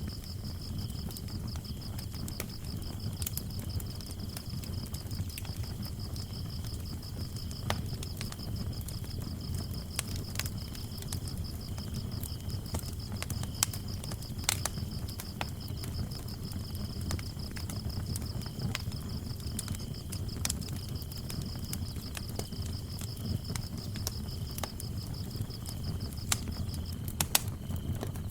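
Wood fire burning in a fireplace, a low rumble of flames with scattered sharp crackles and pops, under a steady high cricket trill; the trill stops shortly before the end.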